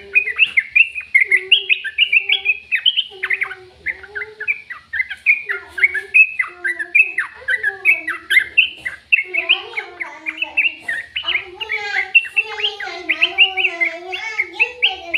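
Bird chirping and twittering in quick short notes without a break, over a lower wavering warble that grows more continuous in the second half.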